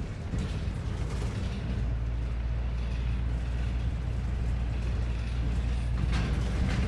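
A London bus's engine running, heard from inside the cabin as a steady low drone, with a short hiss of air near the end.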